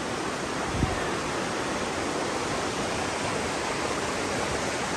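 Steady rush of flowing water from a cold spring's stream where it meets a river, with a brief low thump about a second in.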